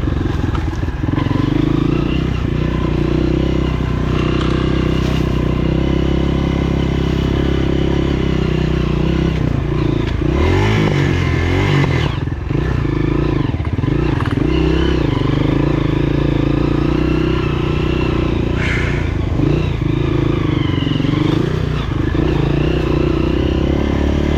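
Honda CRF230F's single-cylinder four-stroke engine running steadily, its pitch dropping and climbing again a few times around the middle.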